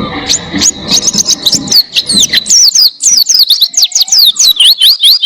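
White-eye (pleci) singing a fast run of sharp, high, downward-sweeping whistled notes, several a second.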